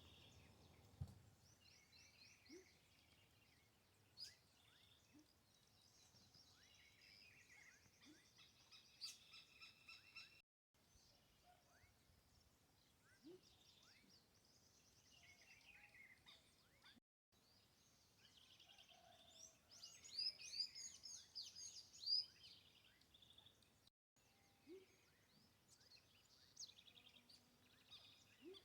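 Several wild birds calling and singing: overlapping chirps and rapid trills, busiest about two-thirds of the way through. The sound cuts out briefly three times.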